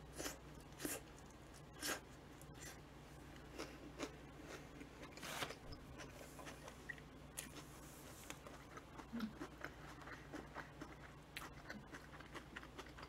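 Faint biting and chewing of a soft sandwich, with scattered small mouth clicks and smacks over a low steady hum.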